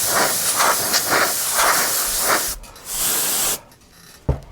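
Can of compressed air spraying in a long, pulsing blast and then a shorter second blast, to clear a hair off the part. A single click near the end.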